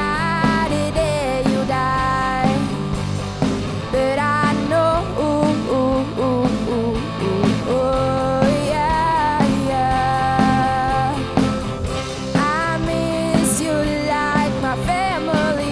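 Rock band playing live: a young teenage girl's sung melody over electric guitars, bass guitar and drums.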